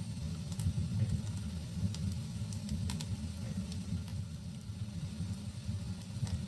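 Wood fire burning in a fireplace: a steady low rumble of flames with scattered sharp crackles and pops, several close together about three seconds in.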